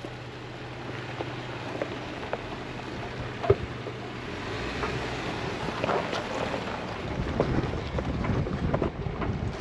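Off-road vehicle driving over a rough dirt track: tyres crunching on gravel with scattered stone clicks and wind rushing past the microphone. There is one sharp knock about three and a half seconds in, and the rumble grows louder toward the end.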